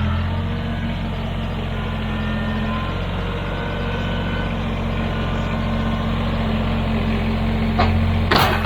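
Kubota BX23s compact tractor's three-cylinder diesel engine running steadily, with a couple of sharp knocks near the end.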